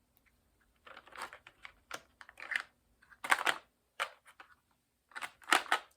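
Handling of small craft supplies: a series of short scratchy clicks and rustles, about six of them with quiet gaps in between.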